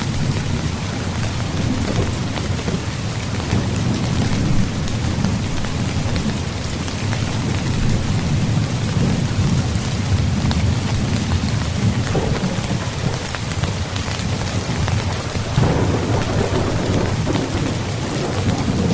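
Rain falling steadily on a tent, with many small drop ticks, over a continuous low rumble of thunder.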